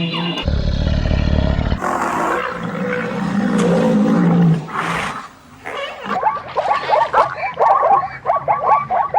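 Animal calls: a deep roar-like call with a rumble for the first few seconds, then, from about six seconds in, a fast run of short repeated calls, several a second.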